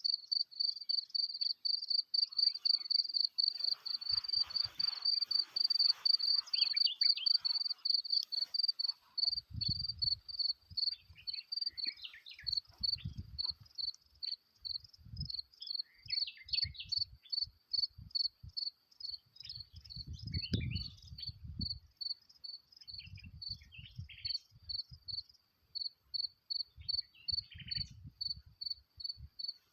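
A cricket chirping with a high-pitched tone: a continuous trill at first, then from about eight seconds in it breaks into even pulses about two or three a second. Scattered low rumbles come and go from about nine seconds in.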